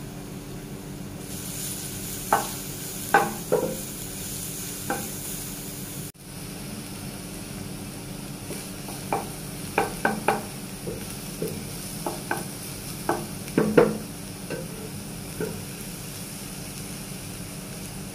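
Minced garlic sizzling steadily in a nonstick frying pan while a plastic slotted spatula stirs it, knocking and scraping against the pan about a dozen times in irregular clusters.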